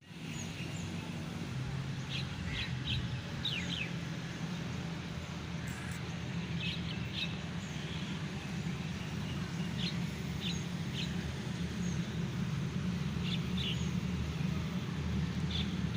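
Birds chirping, short high calls in small clusters every second or two, over a steady low hum.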